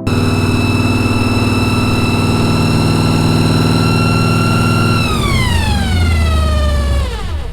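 A loud vehicle siren sounding one steady high tone, then winding down with a smooth fall in pitch over the last couple of seconds, with an engine running underneath.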